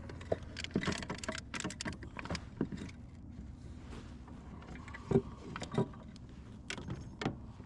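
Irregular knocks, taps and rattles of gear being handled aboard a fishing kayak, with one louder knock about five seconds in.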